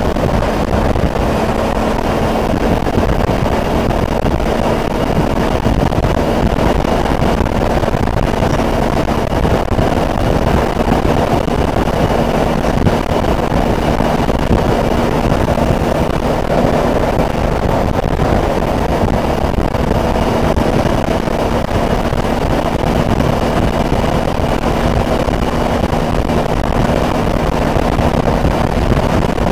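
Suzuki DL650 V-Strom's V-twin engine running at a steady cruise, with wind noise on the microphone.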